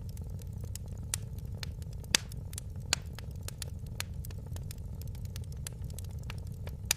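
Wood fire in a fireplace crackling: irregular sharp pops and snaps over a steady low rumble, with the loudest pops about two and three seconds in.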